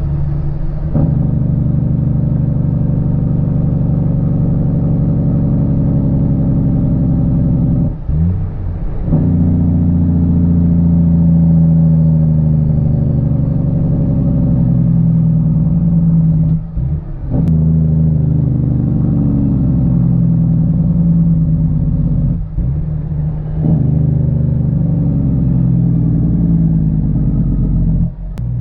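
Caterpillar C13 diesel of a Kenworth W900B dump truck running steadily under way. The engine note dips briefly and changes pitch three times, as at gear shifts.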